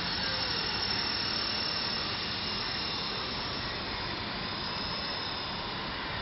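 Helicopter running: a steady whooshing noise with a faint high whine over it.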